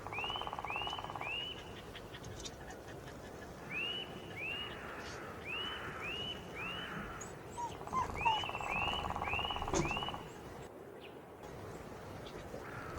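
Birdsong: a bird repeating runs of three to five short arched whistled notes, about two or three a second, with a lower buzzing rattle under two of the runs.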